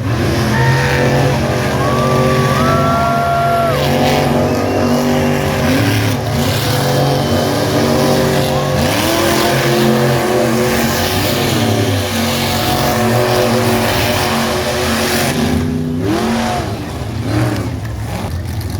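Monster truck engine running hard, revving up and dropping back several times over a steady loud drone.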